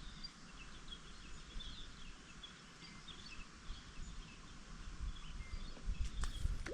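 Faint outdoor ambience: small birds chirping in short scattered notes over a low rumble, with a brief sharp noise near the end.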